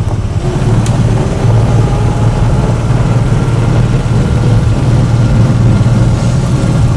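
John Deere tractor engine running steadily, heard from aboard the tractor: a loud, even low hum.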